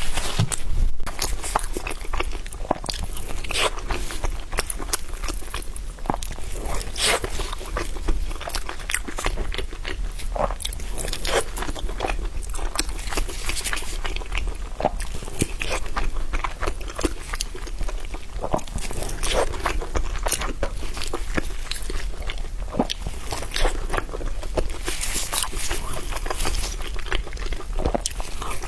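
Close-miked mouth sounds of eating: irregular crunchy bites and wet, clicky chewing, one after another.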